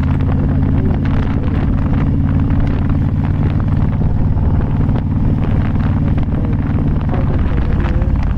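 Motorcycle engine running at a steady pace while riding, with wind noise on the microphone.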